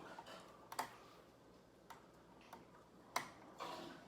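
Close-miked eating sounds: a taco being bitten and chewed, giving a few sharp crunches and clicks about a second apart, the loudest about three seconds in.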